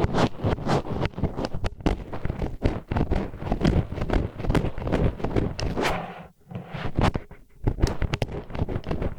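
Disposable wooden chopsticks scraping and grinding against an ear microphone in ASMR ear cleaning: a dense, irregular run of crackling strokes, with a brief break about six seconds in.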